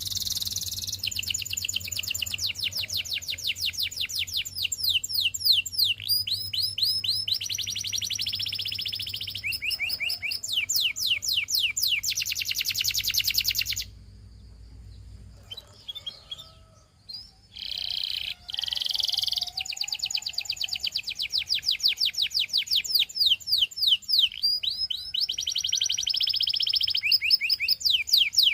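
Canary singing: fast, loud trills and rapid runs of repeated down-sweeping notes, with a pause of a few seconds of soft notes near the middle.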